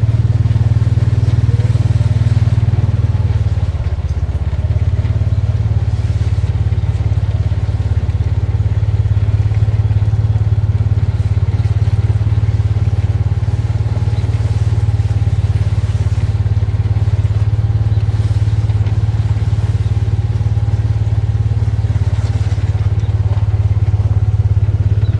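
A vehicle engine running steadily, a constant low rumble that is heard from on board.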